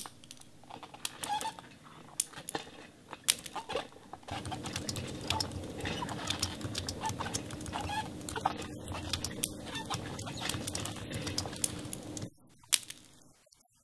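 Bird calls with many scattered clicks. A steady hum comes in about four seconds in and cuts off suddenly about twelve seconds in, followed by one sharp click.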